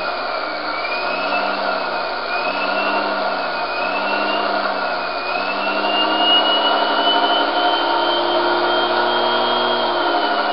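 Series-wound brushed DC motor running under throttle from a Kelly KDZ48400 controller, being revved. Its whine rises and falls several times, then climbs higher about halfway through and holds there.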